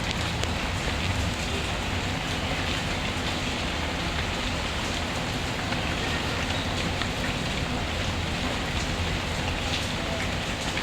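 Steady rain falling, an even hiss over a low rumble, with scattered faint sharp ticks throughout.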